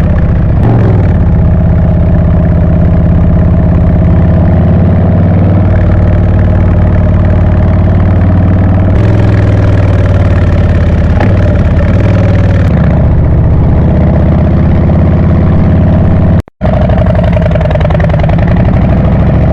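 Harley-Davidson Breakout's V-twin engine running steadily, with a brief cut to silence about three-quarters of the way through, after which the pitch dips and rises a little.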